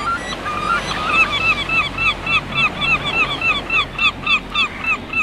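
A bird giving a fast run of short repeated calls, about four a second, over a steady low hum.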